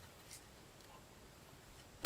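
Near silence, with one faint click about a third of a second in.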